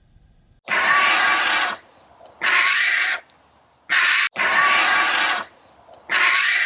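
A farm animal giving a series of loud, harsh calls, about five of them, each up to about a second long with short pauses between.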